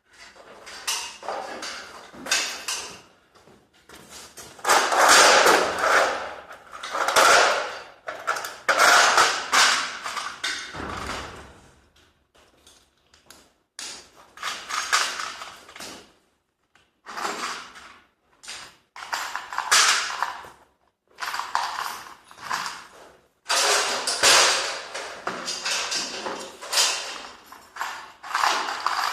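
Garage door creaking and rattling in irregular bursts of one to three seconds each, with short pauses between them.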